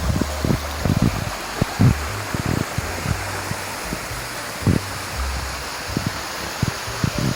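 Wind rushing and buffeting the microphone, with a steady hiss and irregular low thumps from gusts.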